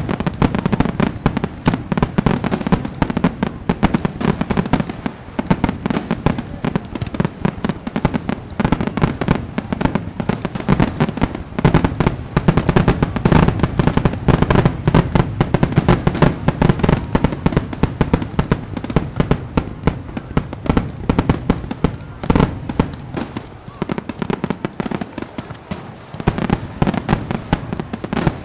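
Fireworks display: a dense, continuous barrage of bangs and crackling, easing off a little about twenty-three seconds in and building again near the end.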